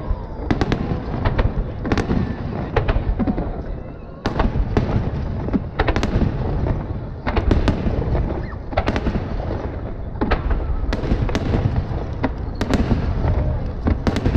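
Aerial firework shells bursting in quick succession: a string of sharp bangs, several close together at times, over a continuous low rumble of echoing booms.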